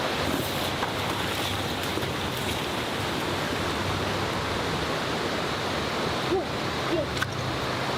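Steady rushing water of a waterfall or stream, a dense even hiss, with a few short squeaks about six to seven seconds in.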